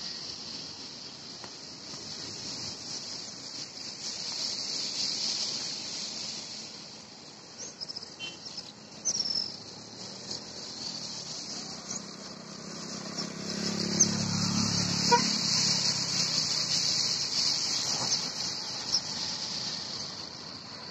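A steady chorus of insects, with a few short bird chirps about a third of the way in. A low rumble swells and fades near the middle.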